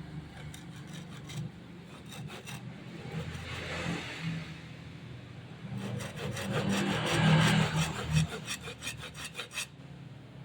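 A saw cutting through wood in quick, scratchy strokes. The strokes are sparse at first, come faster and louder in the second half, and stop near the end.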